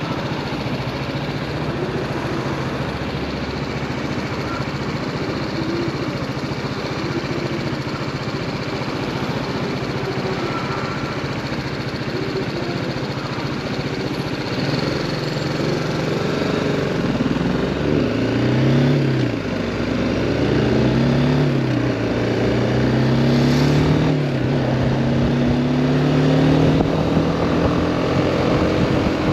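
BMW G310R's single-cylinder engine running steadily at low revs in slow traffic, then pulling away: the pitch climbs and drops several times as it accelerates and shifts up through the gears, settling into a steady higher note near the end.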